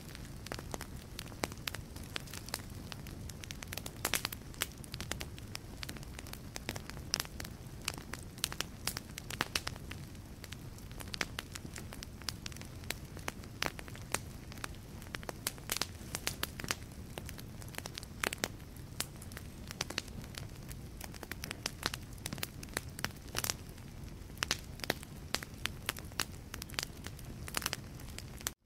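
Wood fire burning in a fireplace, crackling and popping with dense, irregular snaps over a steady low rumble of flame. The sound cuts out for a moment at the very end.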